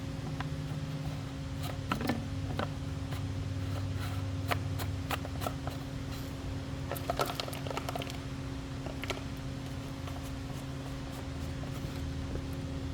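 Scattered small clicks and taps of hands working a new fuel filter and its line back into a string trimmer's fuel tank, over a steady background hum. The engine is not running.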